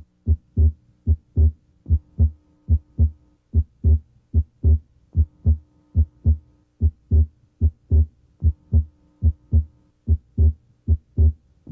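Heart sounds heard through a stethoscope diaphragm at the left sternal border: a steady lub-dub rhythm of paired low thumps, the first and second heart sounds, over a faint steady hum. The second sound is abnormally widely split, the split coming and going with deep breathing.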